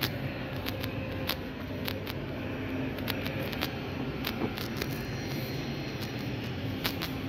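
Electric trains standing at a station platform, giving a steady low hum under general station noise. Short, sharp clicks come at irregular intervals throughout.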